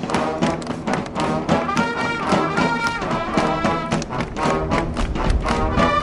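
Live high-school marching band playing: brass section with trumpets and trombones over a steady, driving drum beat.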